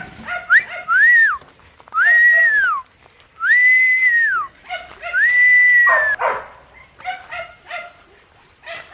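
A person whistling four long notes, each rising, holding and then falling, with a dog's short yelps and whines in between.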